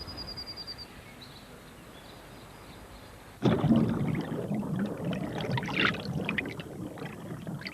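Water splashing and sloshing in a garden pond, starting suddenly about three and a half seconds in and going on irregularly, after a brief high chirp at the start.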